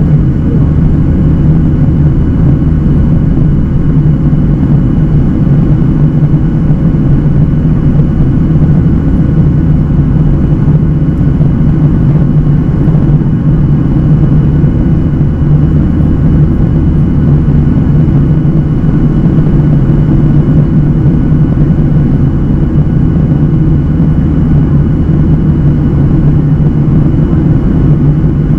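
Boeing 737-800 cabin noise: the CFM56-7B turbofan engines and airflow make a loud, steady low hum that holds constant, with no change in pitch.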